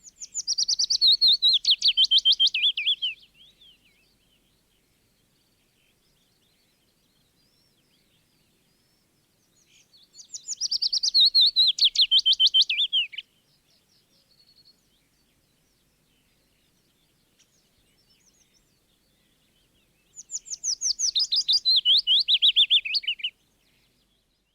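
Willow warbler singing: three song phrases about ten seconds apart, each a quick run of sweet notes of about three seconds that falls steadily in pitch, with faint notes in the pauses between.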